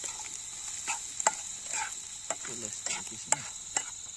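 Spice masala of onion, ginger, garlic and ground spices frying in a pan, stirred with a utensil that scrapes the pan in short, irregular strokes, under a steady high drone of crickets.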